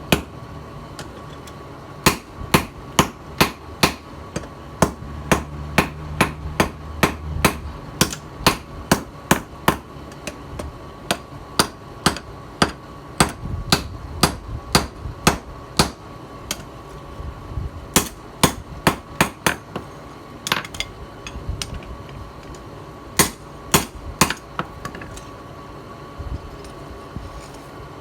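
Hand hammer striking a steel blade on an anvil in runs of sharp ringing blows, about two a second, with short pauses between runs.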